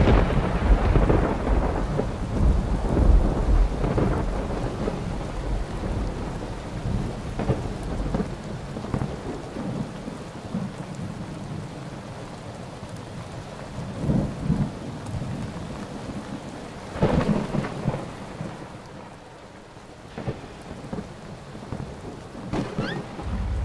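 Thunderstorm: steady heavy rain with a loud rumble of thunder that fades away over the first few seconds. Shorter louder surges come about halfway through and again a few seconds later.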